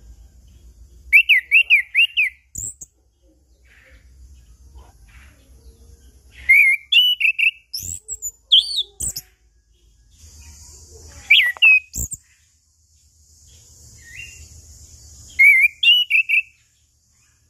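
Chestnut-capped thrush (anis kembang) singing in four bursts of quick, rising and falling whistled phrases with pauses between, with a few sharp clicks among them.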